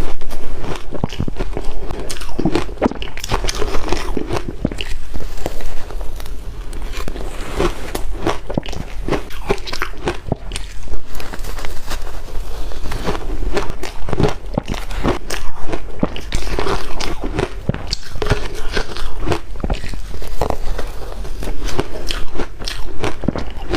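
A person biting and chewing ice: loud, sharp crunches of ice cracking between the teeth, coming many times a second with no real pauses.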